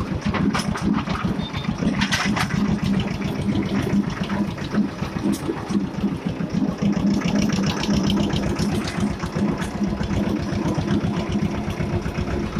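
Escort 335 tractor's three-cylinder diesel engine running steadily with a rapid, even chugging beat.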